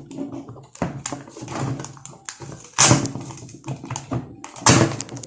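Irregular taps, clicks and knocks of hands handling multimeter probes against the pins of a microwave keypad connector, with two louder knocks about three and five seconds in.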